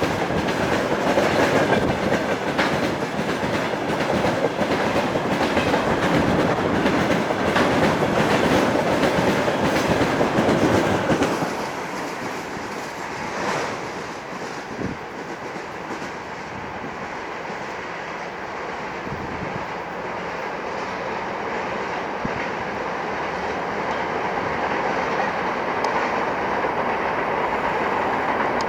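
Freight train of tank cars rolling past, the wheels clattering over the rail joints. About 11 seconds in, the clatter drops away to a quieter rumble that slowly builds again.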